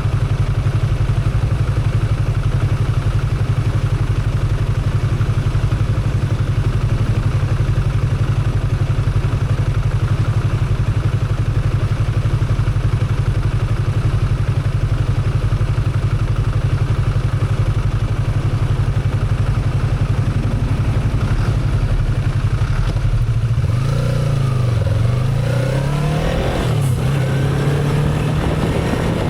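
Motorcycle engine running steadily while riding, a constant low drone. Over the last five seconds or so the engine note falls and rises several times as the revs change.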